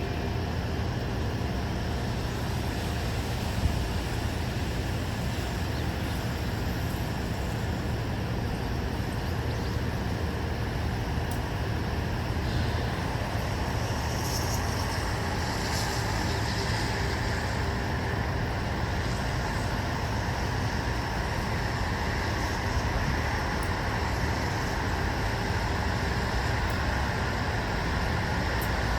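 Steady white-noise ambience: an even hiss over a low rumble, with a faint higher rustle about halfway through.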